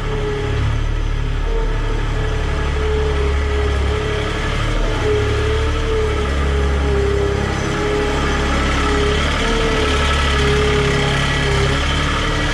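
An engine running steadily with a low rumble and a wavering mid-pitched whine over it.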